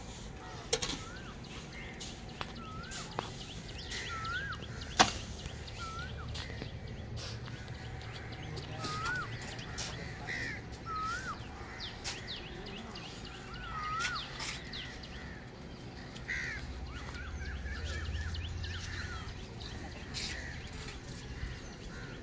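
Birds calling, short hooked up-and-down notes repeated every second or so, over scattered sharp taps and clicks from bricklaying. The loudest click comes about five seconds in.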